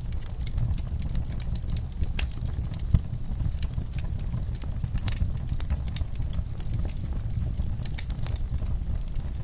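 Wood fire crackling in a fireplace: irregular sharp crackles and pops over a steady low rumble of the flames, with one louder pop about three seconds in.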